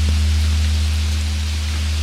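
Steady rain pattering, under the deep, steady hum of a large Korean Buddhist temple bell (beomjong) ringing on after its strike.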